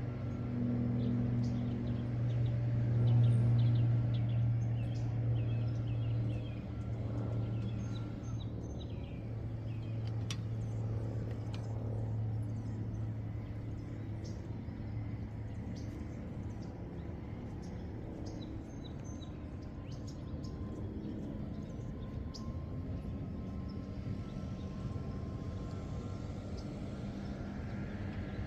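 A low vehicle engine hum, strongest for the first dozen seconds and then fading away, over a steady background hiss with birds chirping.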